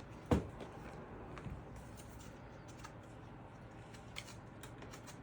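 Faint handling noises of PC parts and packaging being moved about while a part is searched for: one light knock, then scattered small clicks and rustles.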